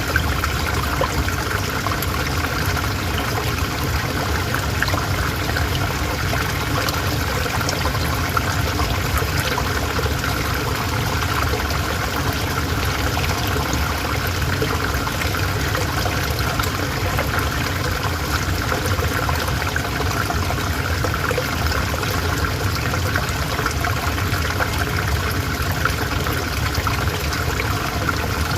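River water flowing steadily over stones, an even rushing with fine trickling.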